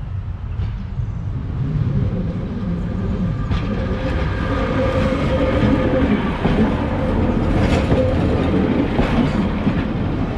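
Class 142 Pacer diesel railbus passing close by, its engine running with a steady low rumble and its wheels clicking over rail joints a few times. The sound grows louder about two seconds in, and a steady tone joins it about four seconds in.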